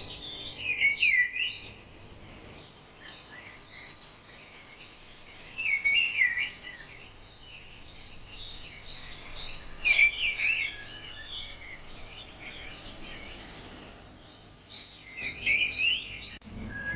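Birdsong: bursts of chirping and warbled phrases about every four to five seconds, over a faint steady background hiss.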